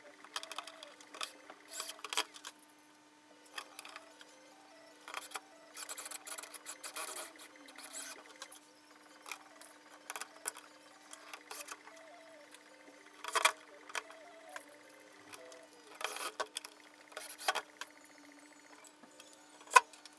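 Scattered clicks, clinks and knocks of parts and tools being handled in a workshop, over a faint steady hum. A few louder knocks come about two-thirds of the way through and near the end.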